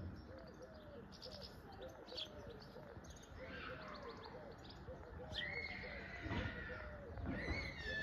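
Birds calling: quick high chirps over a run of short, low repeated notes, with two longer falling calls about five and seven and a half seconds in.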